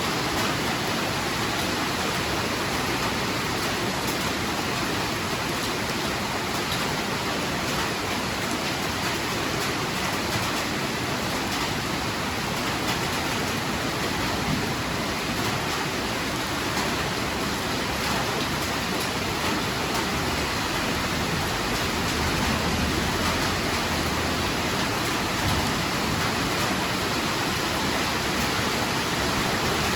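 Heavy rain falling as a steady, even hiss, with no thunder and no changes.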